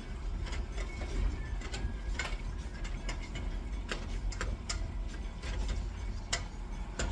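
Irregular light clicks and knocks of kitchen utensils at work, over a steady low hum.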